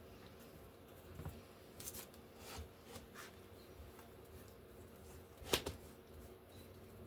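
Paper cutouts being handled and pressed onto a page by hand: a few soft rustles and taps, with one sharper click about five and a half seconds in.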